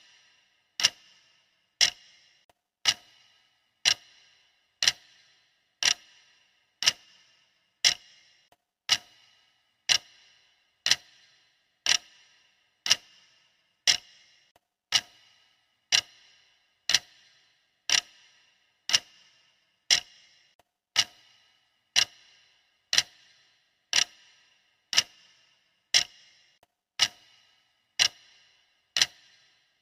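Clock-style ticking of a countdown timer: one sharp tick every second, each with a short metallic ring, perfectly regular.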